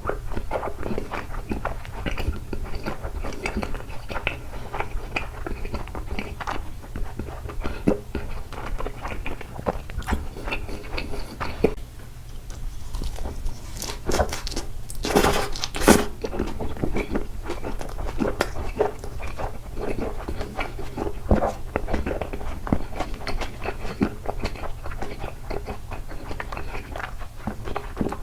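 Close-miked chewing and biting of takoyaki: a dense run of wet mouth clicks and smacks, with a louder, noisier stretch about fifteen seconds in. A steady low hum sits underneath.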